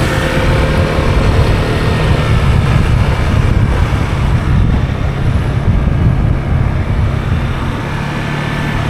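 Motor scooter engine running steadily on the move, with heavy wind noise rushing over the microphone.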